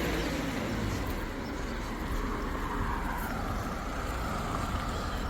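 Outdoor road noise: a steady hiss of a motor vehicle going by, with a faint tone that rises and falls slowly as it passes.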